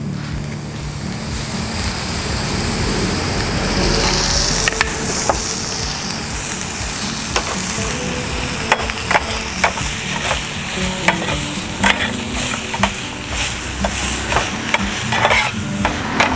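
Chillies, garlic, shallots, lemongrass and other curry-paste aromatics sizzling in a little oil in a pan on a portable gas stove, being dry-roasted until fragrant. From about seven seconds in, the stirring utensil clicks and scrapes against the pan again and again.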